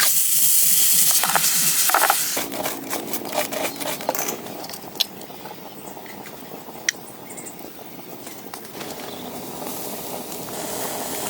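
Food frying in a pan over a fire: a loud sizzle for about two seconds, then quieter crackling with scattered sharp clicks.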